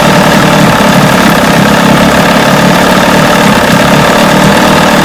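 1980 Chrysler 45 hp two-stroke outboard motor running steadily at a low speed.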